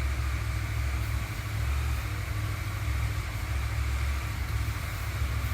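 Kawasaki W800's air-cooled parallel-twin engine idling steadily, a low, evenly pulsing rumble.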